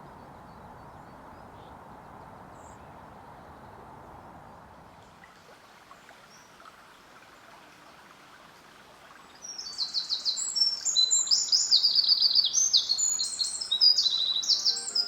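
A quiet outdoor background hiss, then, about two-thirds of the way in, a songbird breaks into a loud, fast run of high twittering notes that carries on to the end.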